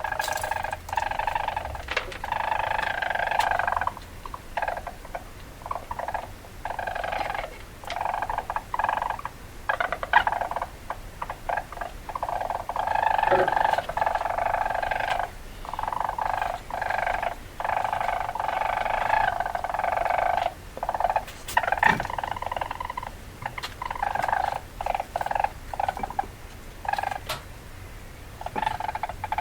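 Weasel chattering calls in repeated bouts of one to three seconds, broken by short gaps and scattered clicks.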